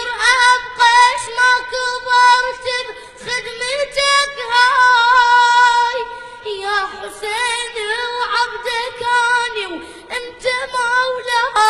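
A single high-pitched voice singing Shia devotional chant, holding long notes and adding ornamented turns to them, with brief pauses for breath.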